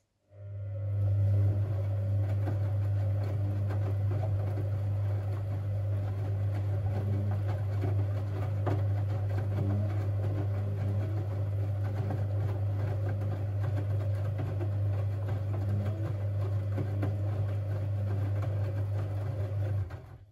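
Siemens Siwamat 6143 washing machine running with a steady low hum for about twenty seconds, starting and stopping abruptly.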